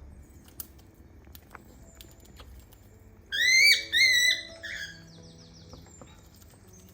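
Cockatiel chirping: a quick run of loud, rising whistled chirps about three seconds in, then a few softer ones, over faint background music and a few light ticks.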